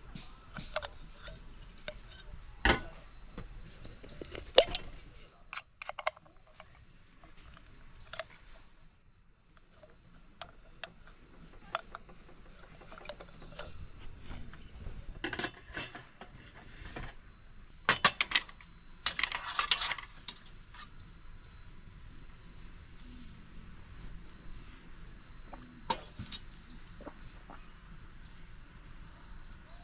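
Scattered clinks and knocks of utensils and dishes during food preparation, with a busier cluster of clatter around two-thirds of the way through. Crickets chirp steadily in the background.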